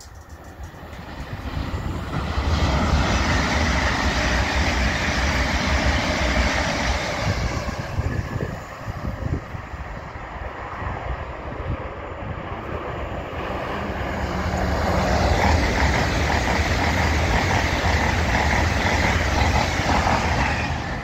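Two passenger trains passing in turn on an electrified main line. A GWR Class 387 electric unit rushes past and fades during the first several seconds, then a GWR Class 802 bi-mode pair approaches and runs past close by, with a steady rushing and low rumble that peaks near the end.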